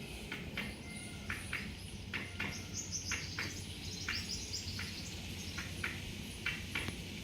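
Small birds chirping, short sharp chirps about twice a second, with a higher, faster twittering joining in for a second or two around the middle.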